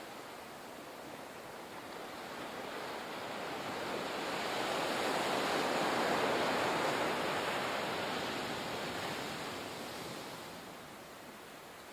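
Ocean surf: a single wave builds over a few seconds, peaks about halfway through, then washes back and fades.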